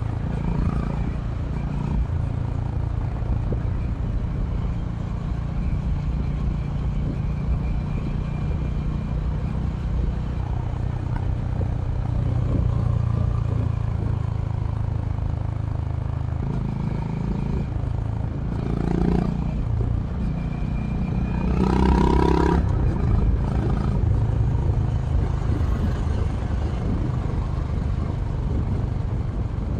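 Honda H'ness CB350 RS's air-cooled single-cylinder engine running steadily under way through its stock exhaust, its pitch shifting a little with the throttle. A brief louder rush comes about two-thirds of the way in.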